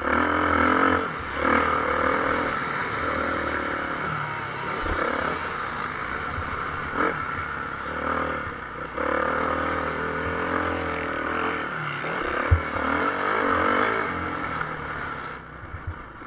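Motocross motorcycle engines racing, their pitch rising and falling over and over as the throttle is opened and closed, with a brief sharp knock about three quarters of the way through.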